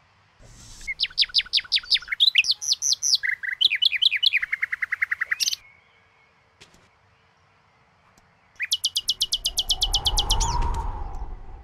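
A small songbird chirping in fast trills of sharp, falling notes, changing pattern several times over about five seconds. After a pause of a few seconds comes a second fast trill, joined by a low whoosh that swells and fades.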